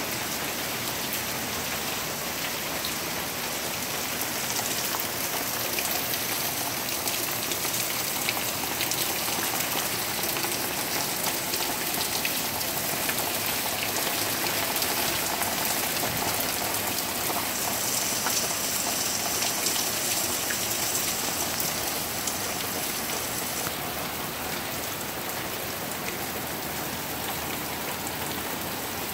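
Heavy rain falling steadily: a dense hiss of drops with many fine ticks, a little louder through the middle.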